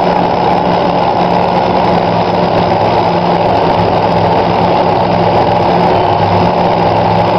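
Drag-racing car engines idling loudly and steadily, with no revving.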